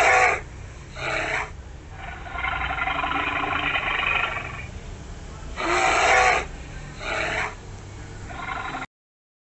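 Polar bear vocalizing: six rough calls, mostly about half a second each, with one longer call of about two and a half seconds in the middle. The loudest calls come at the start and about six seconds in, and the sound cuts off abruptly just before the end.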